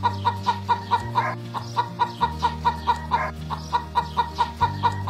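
Hen clucking in a quick, even run of short clucks, about four a second, over soft background music.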